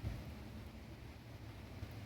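Wind buffeting the microphone: an uneven low rumble that rises and falls, over a faint steady hiss.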